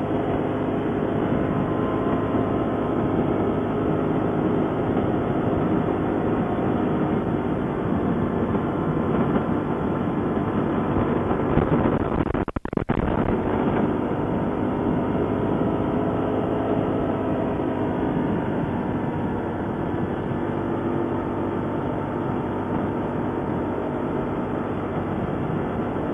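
ATV engine running steadily under way, a continuous rumble with a faint held engine tone. The sound cuts out briefly about halfway through, then resumes unchanged.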